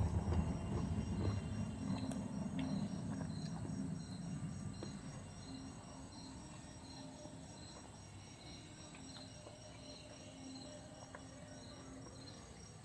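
Crickets chirping in an even rhythm, about two and a half chirps a second, under a low rumble that fades away over the first few seconds.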